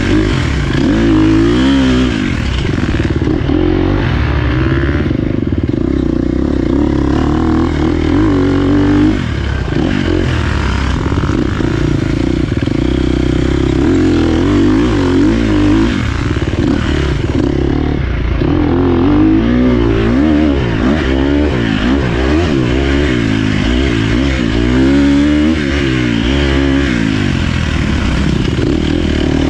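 Dirt bike engine being ridden, its revs rising and falling over and over as the throttle is opened and closed.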